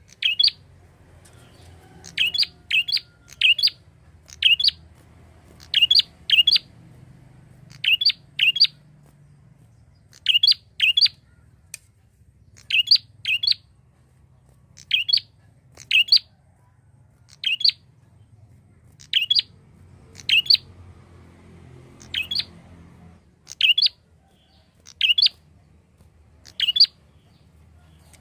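Prinia (prenjak) giving short, sharp chirping calls, often in quick pairs or triplets, repeated about once a second.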